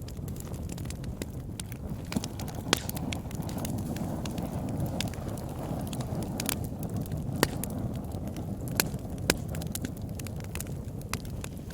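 Fire in a fireplace crackling: a steady low rush of flames with scattered sharp pops, a few of them louder near the middle.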